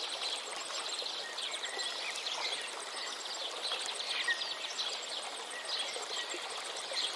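Many birds chirping and singing in short, overlapping phrases over the steady rush of a river.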